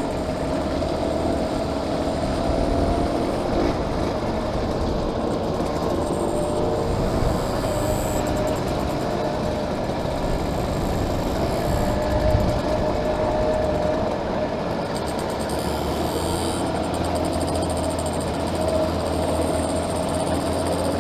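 Small classic motorbike engine running at a steady cruising speed, its note rising and falling only slightly, over a constant rumble of wind and road noise.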